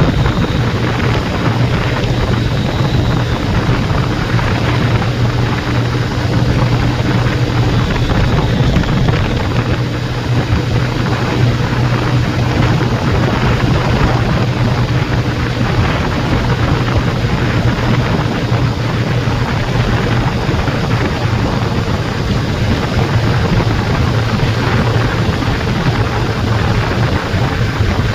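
Steady engine drone with wind rush, as from riding a motorbike at an even speed; the low hum holds steady throughout.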